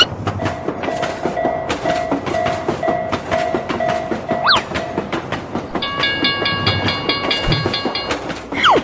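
Animated train sound effects: a train running with rapid clacking of its wheels over the rail joints. For the first half, a railroad-crossing warning bell rings about twice a second. From about six seconds in, a higher pulsing chord of several tones takes over, with a short rising whistle-like glide near the middle and a falling one at the end.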